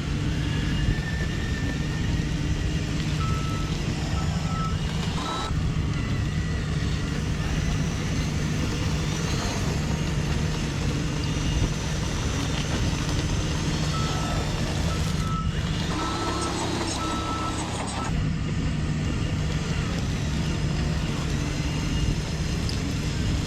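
Radio-controlled scale truck running with a steady low hum, its reversing beeper sounding in runs of evenly spaced beeps about three seconds in, again from the middle for a few seconds, and near the end.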